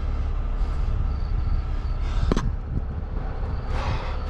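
A heavy vehicle's engine running steadily with a low rumble, with a single sharp metallic click a little over two seconds in.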